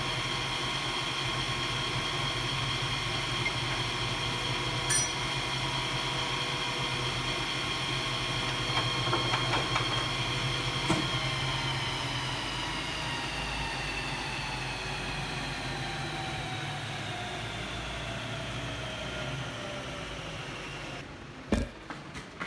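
A lathe running steadily, then switched off about eleven seconds in: its hum falls in pitch and fades as the spindle spins down, stopping near the end with a couple of sharp knocks.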